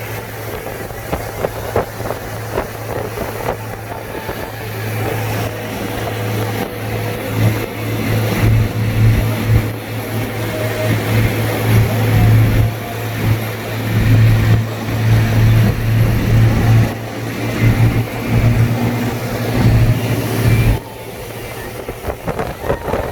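A car driving in rain: steady engine and tyre noise with a strong low drone that cuts out sharply about 21 seconds in, after which the sound is quieter.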